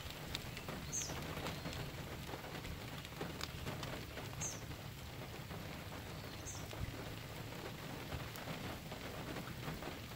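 Light rain falling with a soft, even patter of drops, and a bird giving a short, high, falling chirp three times.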